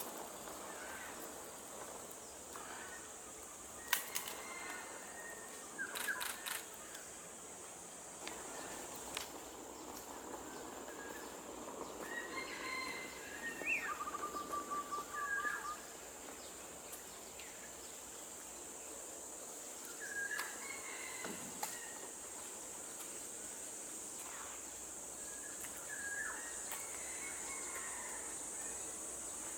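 Outdoor ambience of a steady high insect drone with scattered bird calls and chirps, including a short trill about halfway through; a few sharp clicks sound near the start.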